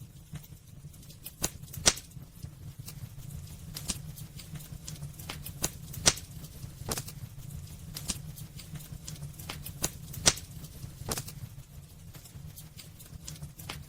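Wood fire burning in a fireplace: irregular sharp crackles and pops, a few louder snaps among them, over a steady low rumble of the flames.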